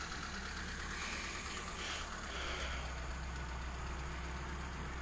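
A car engine idling, a steady low rumble, with an even hiss of falling rain.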